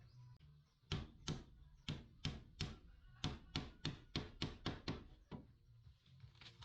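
Hammer blows on wood, about fourteen quick strikes at roughly three a second, stopping about five and a half seconds in.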